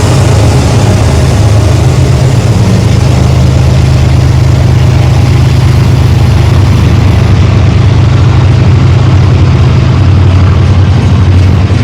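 Diesel locomotives of a BNSF intermodal freight train running past loud and steady, a deep engine drone under a broad rumble.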